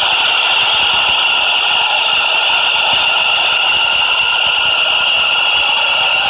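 New York City subway train running, a loud steady rattling hiss with a high, ringing tone over it.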